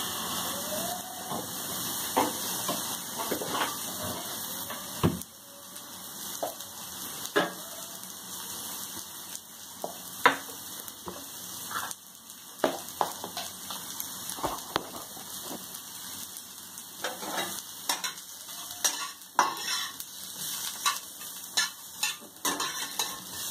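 Cauliflower stalk strips frying in a little oil in a frying pan: a steady sizzle with scattered pops and crackles, a few of them sharper. Near the end a spatula stirs the strips about the pan.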